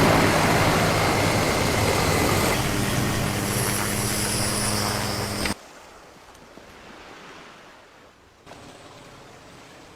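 Loud, steady engine rumble with a rushing hiss, which cuts off suddenly about five and a half seconds in. After that there is only faint background noise.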